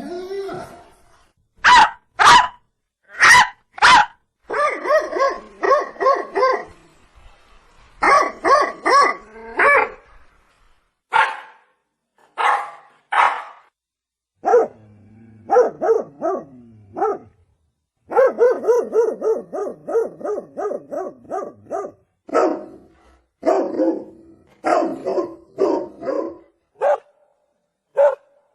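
Dog barking: a few single loud barks, then quick runs of barks with short pauses between them.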